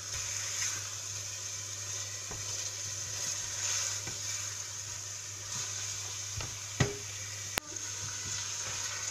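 Chicken pieces and chopped onion frying in oil in a stainless steel pot, a steady sizzle, with a few light knocks as the pot is stirred and one sharp click about three quarters of the way through.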